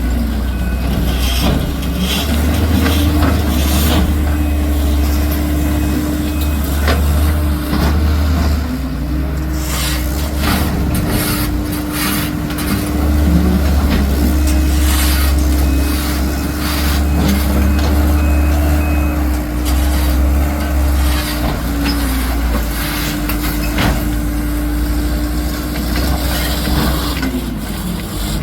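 Heavy diesel work vehicle running under load, with its reversing beeper sounding in two stretches, about a second in and again midway. Repeated clanks and scrapes of debris being moved run over the engine.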